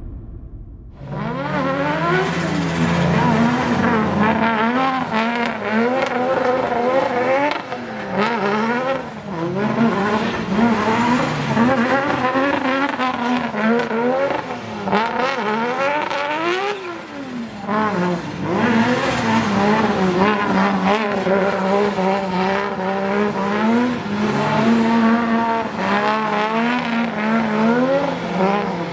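Drift car's engine revving up and down again and again as the car slides sideways through continuous drifts, starting about a second in.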